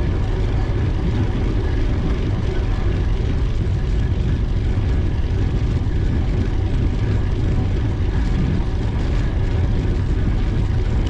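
Steady wind rush and rumble on the microphone of a camera carried on a moving bicycle.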